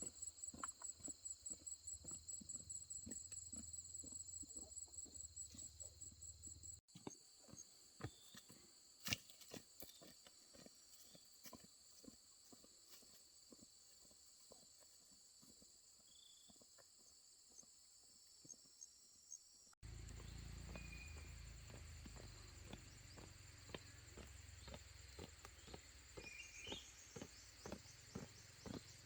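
Quiet countryside ambience: a steady high insect whine with regular taps like footsteps about three or four a second, then scattered taps and a few short bird chirps. Two abrupt cuts change the background, the last adding a low rumble.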